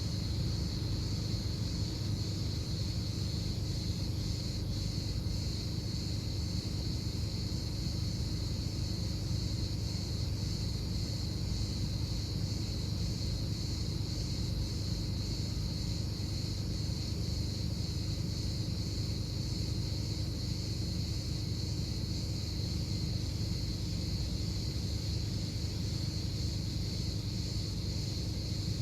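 Steady outdoor background rumble with a constant high-pitched hiss running over it, unchanging throughout.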